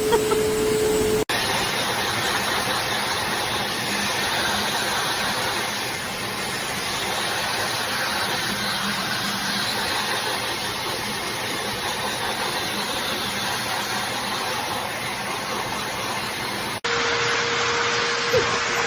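High-velocity dog grooming dryer blowing steadily, a continuous rush of air. The sound changes abruptly about a second in and again near the end, where a steady whine comes back.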